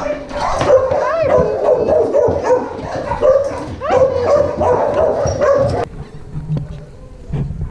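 A dog whining and yipping in high, rising and falling cries, which break off suddenly near the end.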